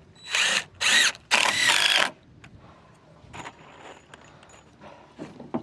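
Handheld power driver running in three short bursts in the first two seconds, the last the longest, its motor pitch wavering as the trigger is worked.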